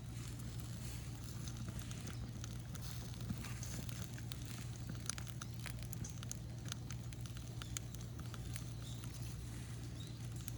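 Bonfire of burning rubbish crackling, with irregular sharp pops and snaps.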